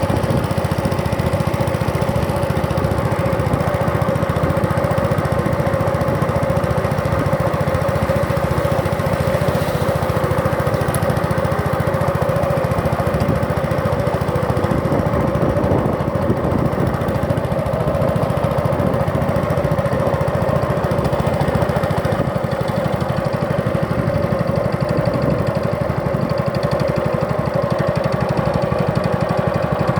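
Boat engine running steadily at constant speed, a loud even drone with no change in pitch.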